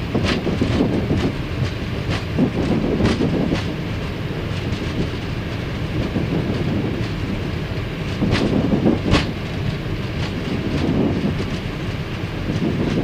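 Airbus A319 landing gear rolling on the runway as the airliner slows after landing, heard in the cockpit: a steady low rumble with irregular sharp knocks and rattles, two of the loudest about eight and nine seconds in.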